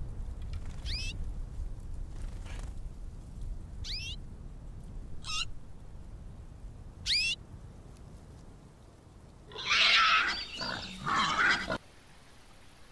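A small finch chirping: five short, rising, warbling calls about a second and a half apart over a low rumble. Near the end comes a louder, rough outburst of about two seconds, a man's guttural laugh.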